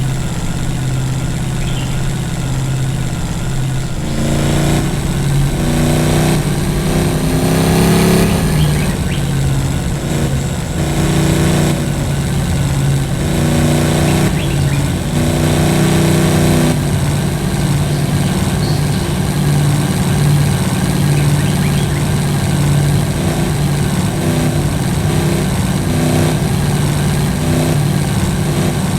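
Vehicle engine running, likely an off-road vehicle being driven. Its pitch changes up and down several times in the first half, then holds steadier.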